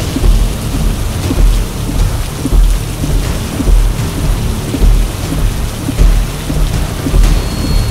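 Heavy storm rain beating on a car's windshield while driving, with a deep thump about once a second.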